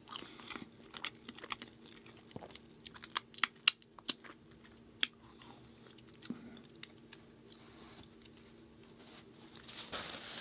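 Close-miked crunching and chewing of a dry gluten-free chocolate chip cookie: a run of sharp crunches in the first half, then quieter chewing.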